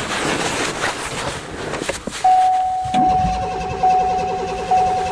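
A cold Ford's engine being cranked over by the starter from about three seconds in without catching, after a car that has sat unused for months. A steady high tone begins shortly before the cranking and sounds along with it.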